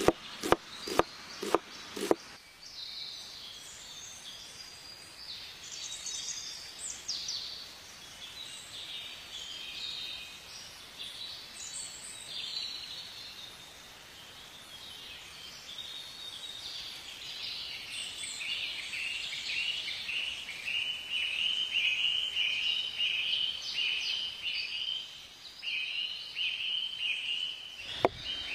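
A knife chopping quickly through an onion on a wooden board, about six sharp strikes, then birds singing and chirping with a rapid, evenly repeated chirp in the second half. Knife strikes on the board come back near the end.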